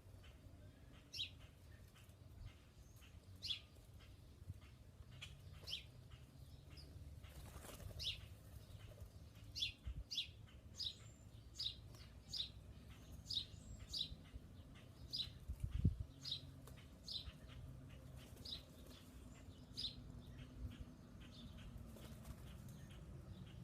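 Small birds at a feeder giving short, high, repeated chirps, one or two a second, over a faint low rumble, with a single dull thump about sixteen seconds in.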